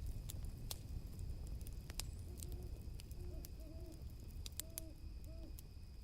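Night campfire ambience: a fire crackling with sharp, irregular pops over a low rumble, while an owl gives a run of short hoots in the middle. A faint steady high tone runs underneath.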